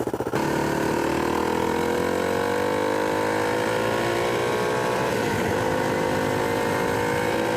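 Dirt bike engine running as the bike pulls away, its pitch rising gently over the first few seconds and then holding steady, with a brief dip about five seconds in.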